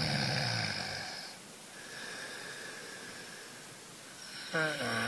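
A cat snoring in its sleep: a low snore at the start, a softer breath through the middle, then a louder snore near the end whose pitch sweeps upward.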